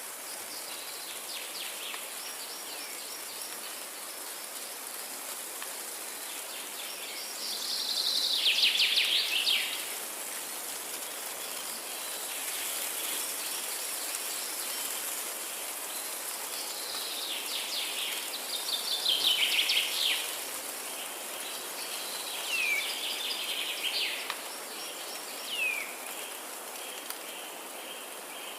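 Forest ambience of songbirds with a steady high insect hiss. Twice a bird sings a loud, rapid trill that falls in pitch, and short down-slurred whistles come near the end.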